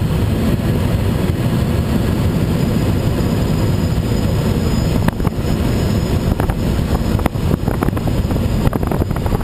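Steady rush of air and low drone in the cockpit of a Schweizer SGS 2-33A glider in flight on aerotow, with scattered sharp rattles and clicks from about five seconds in.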